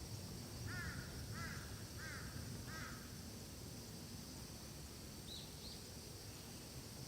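A crow cawing four times in an even series, about two-thirds of a second apart, over a steady high hiss; two short, higher bird notes follow about five seconds in.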